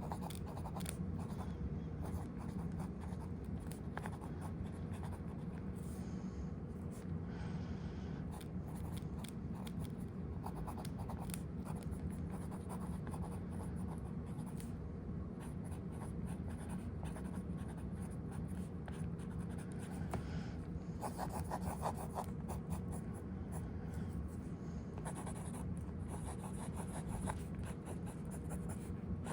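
Fountain pen nib scratching across paper in irregular strokes as it draws, over a steady low background hum.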